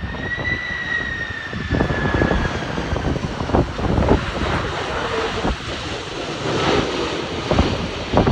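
Jet airliner engines at go-around power: a steady rush of jet noise with a high whine that falls slightly in pitch over the first two seconds. Gusts of strong wind buffet the microphone.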